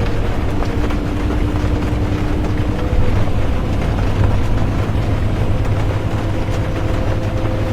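Inside a bus on the move: a steady low engine and road rumble with a faint steady whine over it, mixed with the hiss of rain.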